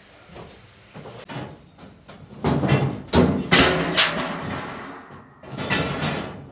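Irregular thumps and knocks, louder from about two and a half seconds in, with background music.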